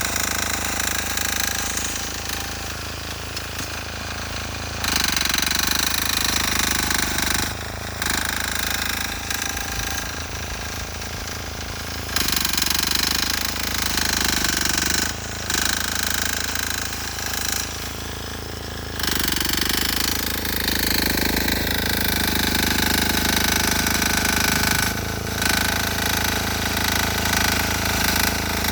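A 6 hp air-cooled single-cylinder diesel engine on a Sears Suburban garden tractor, running with a hard, rapid knock while pushing snow. Its loudness steps up and down every few seconds as the load changes.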